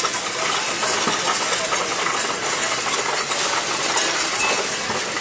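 Steady noisy din of arcade machines around a claw machine being played.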